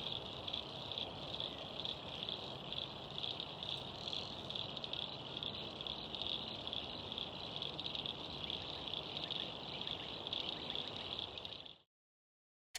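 Insect chorus trilling steadily at a high pitch with a fast even pulse, over a low hiss of pond-side ambience; it cuts off abruptly near the end.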